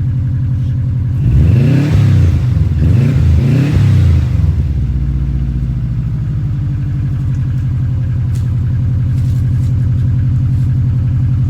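Subaru WRX Bugeye's turbocharged flat-four engine idling just after a cold start in winter, blipped up and down in a few quick revs about a second and a half in, then settling back to a steady idle.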